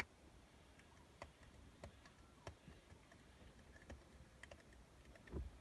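Scattered faint clicks and ticks, roughly one a second, over near silence, with a louder dull bump near the end.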